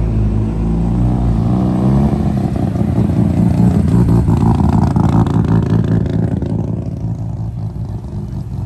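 Car engine and exhaust running at low revs with a pulsing note. It swells about halfway through, then eases off near the end.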